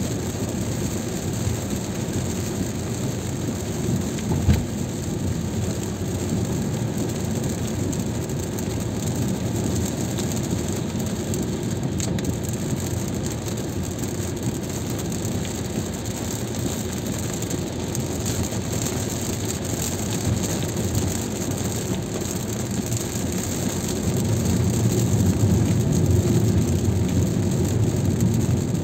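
Heavy rain on a moving car, mixed with the steady rush of tyres on a wet road. There is a single knock about four and a half seconds in, and the low rumble grows louder near the end.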